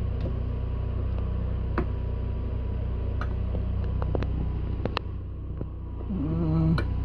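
Trailer's onboard generator running with a steady, low, even hum after a cold start. Sharp clicks sound several times over it, typical of switches being flipped.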